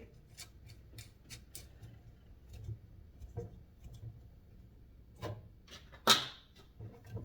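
Light metallic clicks and taps of small screws and nuts being turned hand tight on a fan motor's bushing housing, scattered and irregular, with one sharper click about six seconds in.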